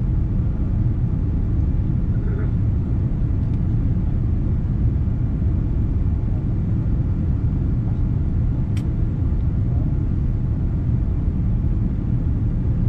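Steady low rumble of a Boeing 787-9 airliner cabin in flight or on the ground, heard from a seat over the wing, with a single sharp click about nine seconds in.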